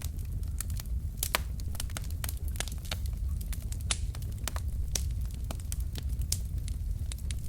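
Wood fire burning in a fireplace: logs crackling and popping in quick, irregular snaps over a steady low rumble of the flames.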